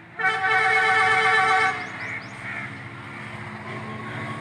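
A ZCU-30 diesel-electric locomotive's air horn sounds one loud, steady blast of about a second and a half, then the locomotive's engine rumbles on steadily.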